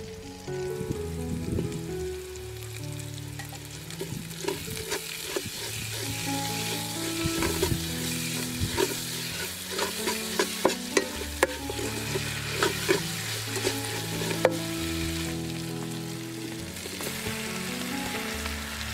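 Chillies, lemongrass and galangal sizzling in hot oil as they are stir-fried in a large aluminium stockpot. A metal ladle scrapes and clinks sharply against the pot many times, most often in the middle of the stretch.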